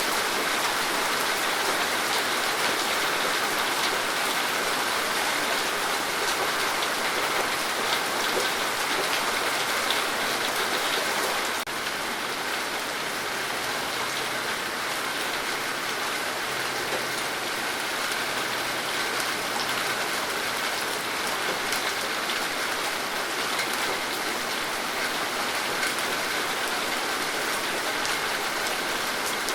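Steady rain falling, a dense, even patter of drops. It dips slightly in level about twelve seconds in.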